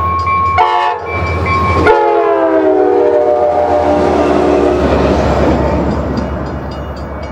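A New Mexico Rail Runner Express commuter train passing at speed, sounding its horn. There is a short blast, then a long one that falls in pitch as the locomotive goes by. The rumble of the passing train follows, with a rhythmic clicking of wheels on the rails.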